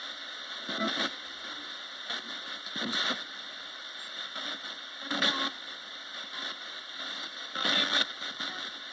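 Roberts radio giving out steady static hiss, with four short louder bursts of broken sound about every two and a half seconds.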